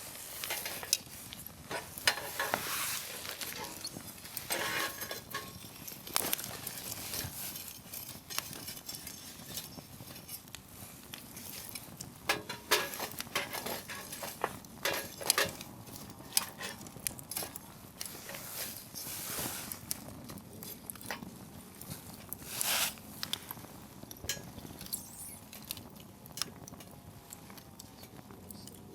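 Wood fire crackling, with dense, irregular pops and snaps from the burning firewood and several brief hissing spells.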